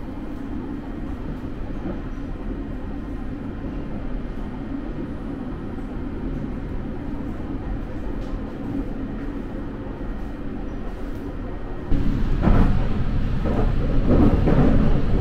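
Sunrise Express (JR 285 series electric sleeper train) running, heard from inside the carriage: a steady rumble with a low hum. About twelve seconds in, it suddenly gets louder, with irregular rattling and clatter.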